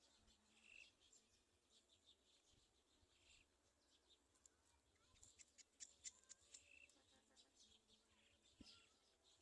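Faint, high bird chirps scattered over near silence, with a quick run of short sharp notes a little past halfway.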